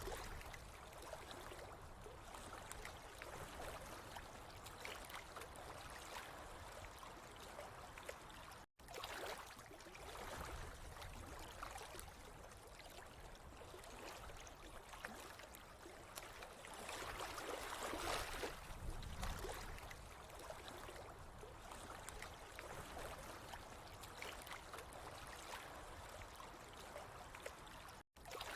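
Running water trickling and gurgling steadily, cutting out for an instant twice.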